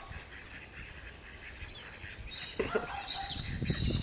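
Birds calling with short, high chirps over faint outdoor background noise, starting a little past halfway.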